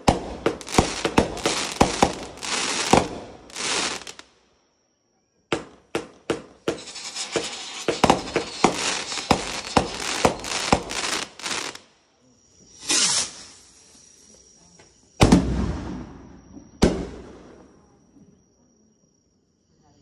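Consumer firework cakes (multi-shot batteries) firing: two rapid volleys of launch pops and crackling bursts, then a few separate, heavier bangs that fade out near the end.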